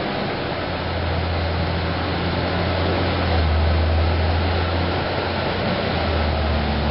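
Steady low mechanical hum under an even hiss, slightly louder in the middle.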